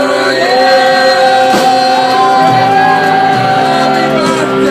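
Live rock band playing loud, with a singer over the instruments and long held notes.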